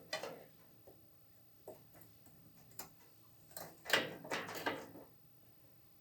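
Handling noises: a few light knocks and clicks, then a short cluster of scraping rubs and knocks about four seconds in, as of parts or tools being handled.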